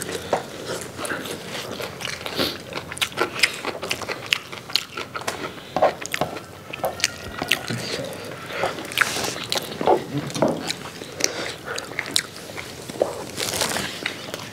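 Close-miked eating sounds: several people biting and chewing fried chicken and biryani with their mouths open, wet smacking mixed with crunching of crisp fried skin, in quick irregular clicks.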